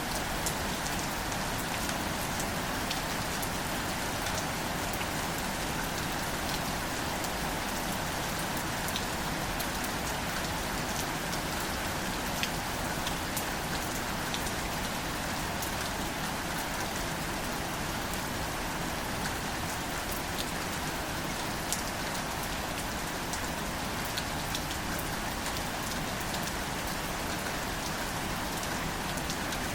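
Steady light rain falling on plants, an even hiss dotted with the small ticks of individual drops.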